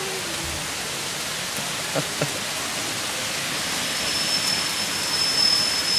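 Hailstones falling heavily, a dense, steady hiss of ice pellets striking the street and surfaces, growing a little louder. A faint high steady tone joins a little past halfway.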